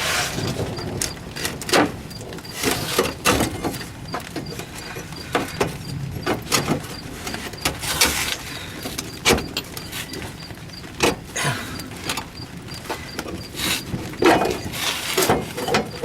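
Irregular knocks, clunks and scrapes of metal as a pickup truck's gas tank and its strap are worked loose and lowered by hand.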